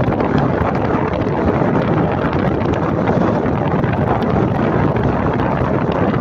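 Steady wind rush buffeting the microphone of a moving motorcycle, with the bike's running noise blended underneath.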